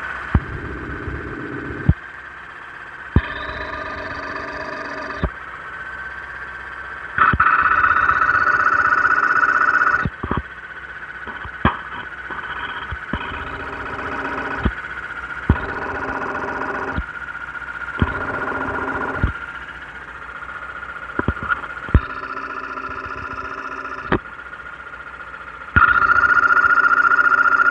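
Mazda CX-7 engine idling and being revved in short bursts, about seven times, under a steady high-pitched whistle that gets louder with each rev. The owner puts the whistle down to the balance shafts, though it sounds like it could come from the high-pressure fuel pump.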